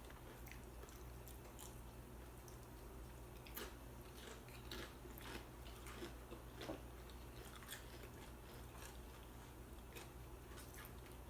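Faint chewing and crunching of chips with salsa, with scattered short mouth clicks, over a steady low hum.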